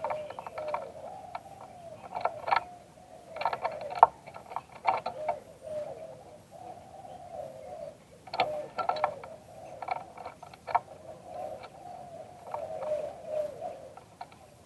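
Spotted dove cooing, a run of low arched notes repeating steadily. Clusters of sharp clicks break in several times and are louder than the cooing.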